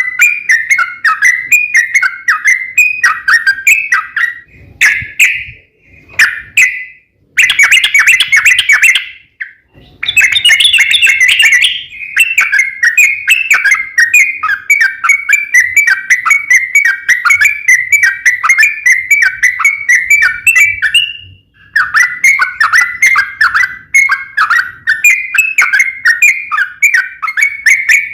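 Yellow-vented bulbul (trucuk) singing a long, fast 'ropel' run of bubbly, chattering whistled notes, broken by a few short pauses.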